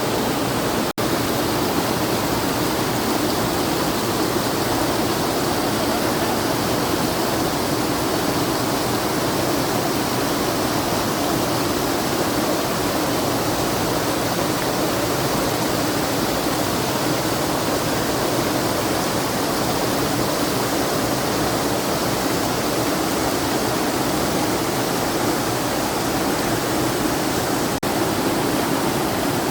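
Waterfall rushing steadily over stepped rock ledges, a dense even roar of white water, broken only by two very brief dropouts, about a second in and near the end.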